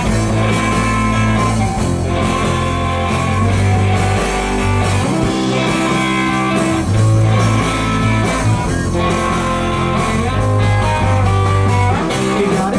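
Live rock band playing the instrumental intro of a song: electric guitar chords over bass and drums.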